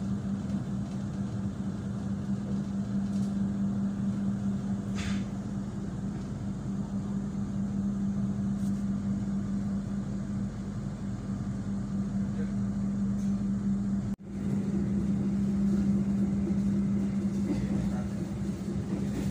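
Steady running noise of a passenger train heard from inside the carriage, with a constant low hum. A cut about 14 seconds in briefly drops it out, and it comes back a little louder.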